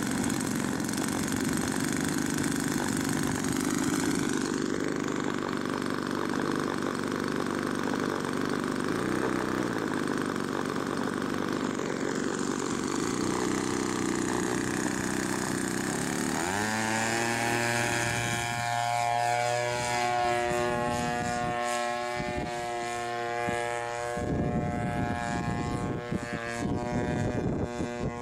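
Two-stroke chainsaw engine driving an aircraft propeller, running steadily. About sixteen seconds in, its pitch rises quickly and it settles into a steady drone, with pitch shifts near the end.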